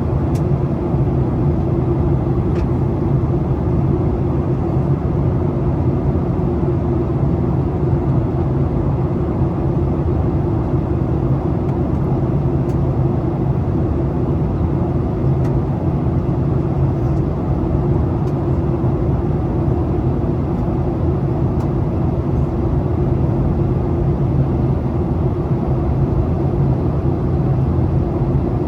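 Steady cabin noise of a Boeing 737 airliner on its approach: a constant drone of engines and airflow with a low hum running under it.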